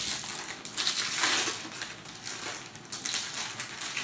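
Wrapping paper being crinkled and torn in irregular bursts as a present is unwrapped.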